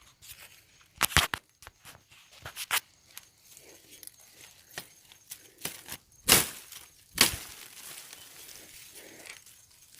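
Irregular rustling, snapping and knocking of dry plant material being handled, with sharp knocks about a second in and two louder ones about six and seven seconds in.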